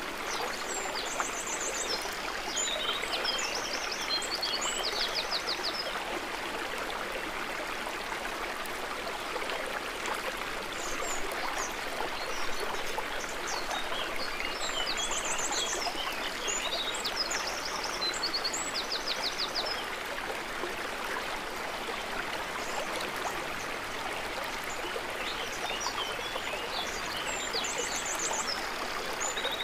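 Water trickling steadily, with a small songbird singing high chirping phrases with rapid trills three times: near the start, in the middle and near the end.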